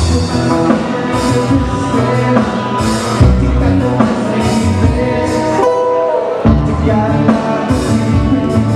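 Live band playing Hawaiian music, with guitar and drum kit; the bass and drums drop out briefly about six seconds in.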